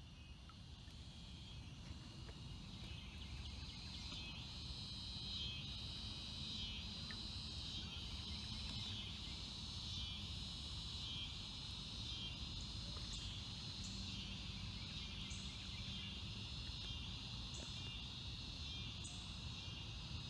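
Evening chorus of crickets and other insects: a high, pulsing trill that swells a little more than once a second and grows louder over the first few seconds. A steady low rumble runs underneath.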